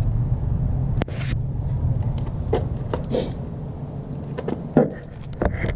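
A few irregular knocks and clicks of tools and metal being handled, the loudest a little before the end, over a steady low hum.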